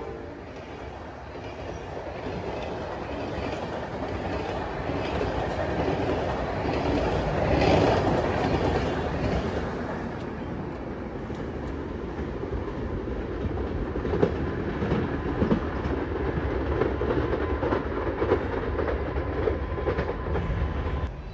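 Passenger train rolling along the tracks, its wheels clattering over the rail joints, loudest about a third of the way in; sharp wheel clicks come through in the second half.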